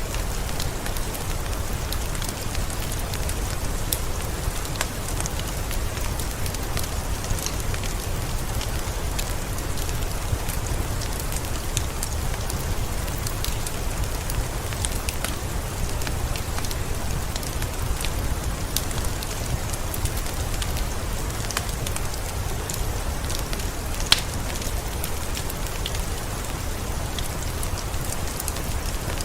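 Steady rain mixed with a crackling wood fire: an even hiss with a low rumble, dotted with small scattered crackles and one sharper pop about four-fifths of the way through.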